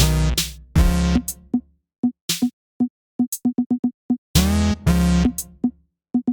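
Electronic background music: short, choppy drum-machine hits with gaps of silence between them, and two held synth chords, one at the start and one about four seconds in.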